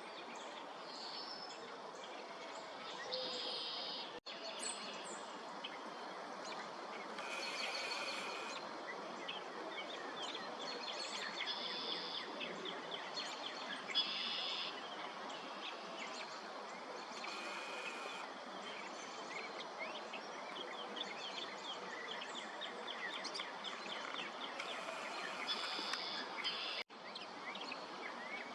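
Northern mockingbird singing a long string of varied phrases: some harsh and buzzy, others runs of quick, clear repeated notes. A steady background hiss of outdoor noise sits beneath the song.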